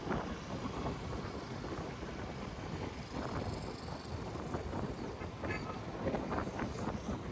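Honda SP 160 single-cylinder motorcycle running on the road, its engine mixed into a steady wind rumble on a helmet-mounted phone microphone.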